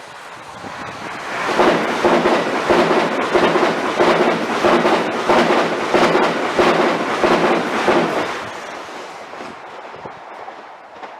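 A train passing close by at speed, its wheels clicking rhythmically over the rail joints, about one and a half clicks a second. The sound swells about a second in, holds loud, then dies away after about eight seconds.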